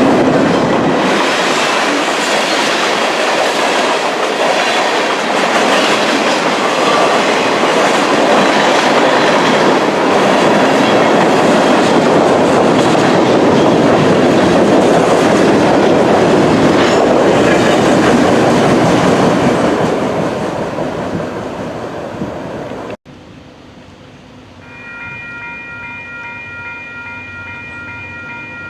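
Freight train cars rolling past with a steady clickety-clack of wheels on rail joints, fading out after about 20 seconds. After a sudden cut, a locomotive horn sounds a steady chord from about 25 seconds in.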